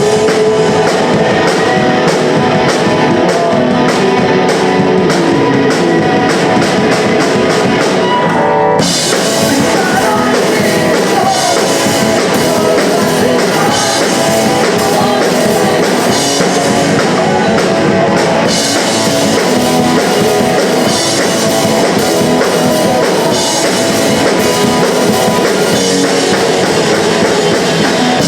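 Live punk rock band playing loud: distorted electric guitars, a driving drum kit and sung vocals. The cymbals open up and get busier about nine seconds in.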